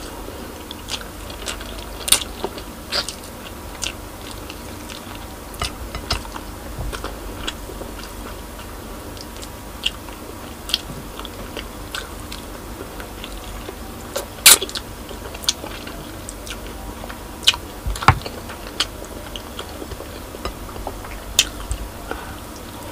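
A person chewing and biting braised pork spare ribs with rice, with scattered wet clicks and smacks from the mouth. The two loudest come about two-thirds of the way through.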